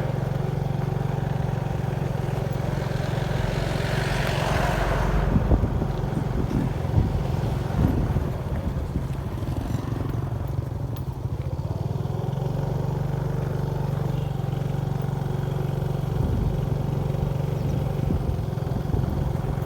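Motorbike engine running steadily while riding, with a brief rush of noise about four seconds in and a few light knocks.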